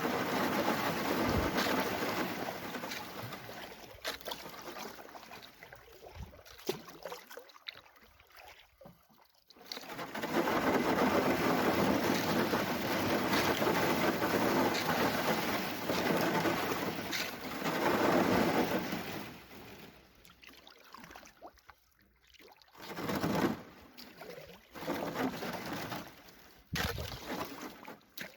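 Canoe under way: rushing water and hull noise that swells and fades in long surges, with a few scattered knocks.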